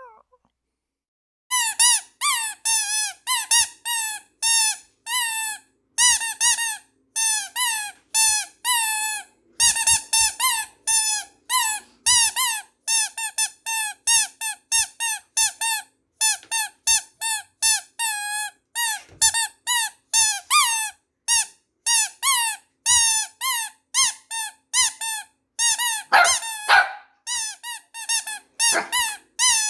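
Squeaky dog toy squeezed over and over: short, high squeaks at about three a second, starting after a second or so of silence.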